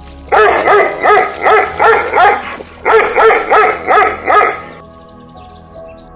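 A dog barking in two quick runs of about six barks each, about three a second, with a short pause between the runs.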